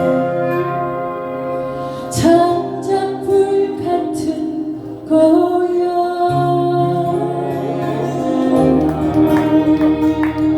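A sung-poem (si-norae) song near its close: a singing voice holds a wavering melody over instrumental accompaniment with changing bass notes.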